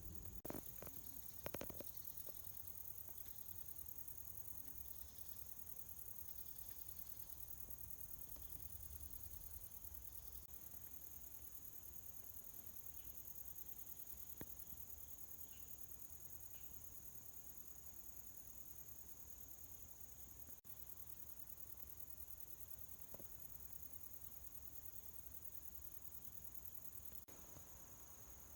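Insects chirring steadily in a high, faint, unbroken band, over a low rumble, with a few knocks in the first two seconds.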